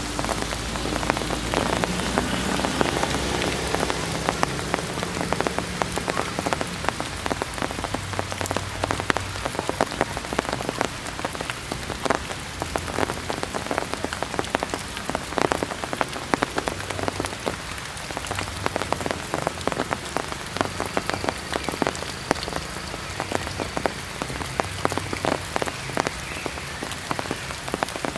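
Heavy rain falling, a steady hiss thick with sharp drops striking surfaces close to the microphone.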